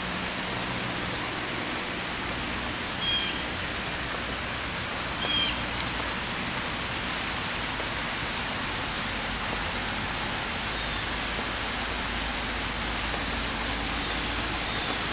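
Steady rain falling, an even hiss. Two short high chirps stand out, about three and five seconds in.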